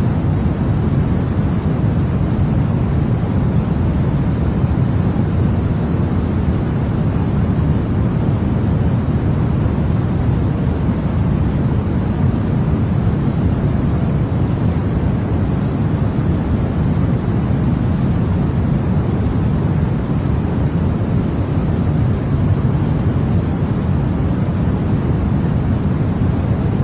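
Continuous white noise for sleep, steady and unchanging, weighted toward the low end so it sounds like a deep hiss with no rhythm or tones.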